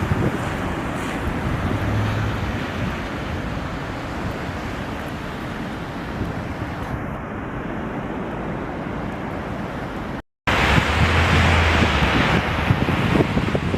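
Strong wind gusting in a snowstorm, rushing and buffeting the microphone. The sound drops out briefly about ten seconds in and comes back louder and gustier.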